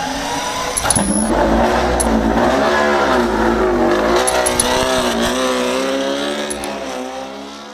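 A vehicle engine revving, its pitch rising and falling several times, then fading out near the end.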